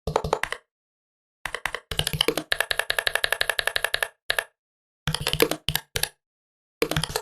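Typing on a laptop keyboard in several quick bursts of key clicks, with a longer fast run of about ten keystrokes a second in the middle, separated by total silence.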